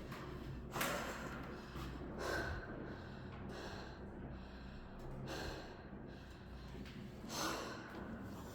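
A person breathing hard and sniffing a runny nose, winded from stair-climbing exercise. There are four heavy breaths or sniffs about two seconds apart, over a low steady hum.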